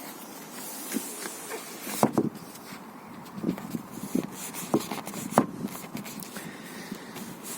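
Kia Seltos rear seatback being pushed against its latch: a series of irregular clicks and knocks, the loudest about two seconds in and again past the middle, as the latch fails to catch on its striker, which is wrapped in electrical tape.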